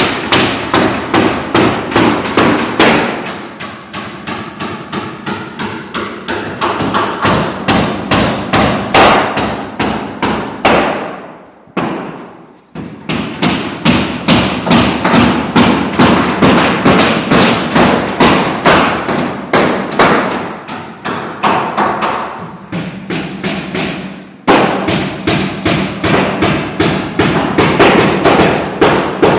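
Rapid, even hammering: sharp knocks at about three blows a second, broken by a brief gap near the middle.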